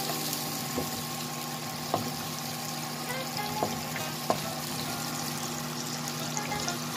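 Onion, garlic, ginger and tomato sizzling in hot oil in a wok as they are sautéed, stirred with a wooden spatula that knocks against the pan a few times.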